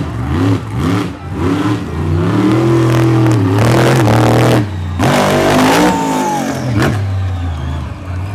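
Monster truck engine revved in several quick blips, then held at high revs for a couple of seconds before dropping off sharply about halfway through and climbing again. A sharp knock comes near the end.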